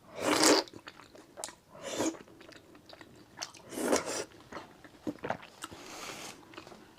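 A person eating thick noodles coated in sesame paste: four noisy mouthful sounds about two seconds apart, with softer chewing and mouth clicks between them.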